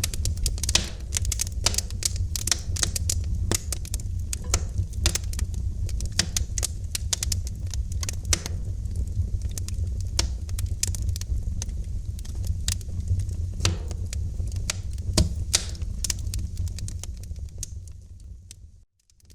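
Wood fire crackling in a fireplace: many irregular sharp pops and snaps over a steady low rumble. Near the end the sound fades out to silence.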